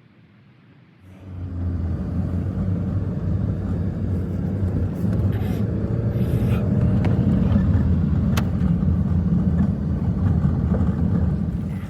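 An engine running steadily with a low hum. It starts about a second in and cuts off abruptly near the end.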